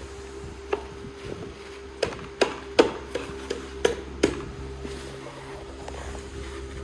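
A series of sharp knocks and taps, about eight of them over a few seconds, with the loudest in the middle, over a steady background hum.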